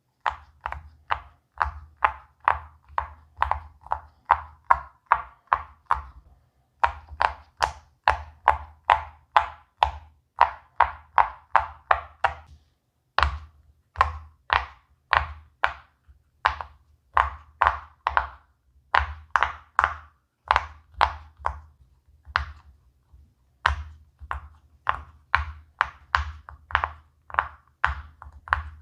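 Silicone pop-it fidget toy bubbles being pressed one after another, each giving a short hollow pop at about three or four a second, in runs broken by brief pauses.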